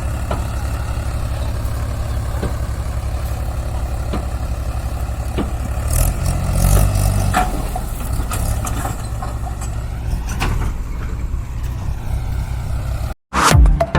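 Heavy diesel engine running steadily at idle, then working harder and louder for a second or two about six seconds in, with a few knocks. It cuts off suddenly near the end as music starts.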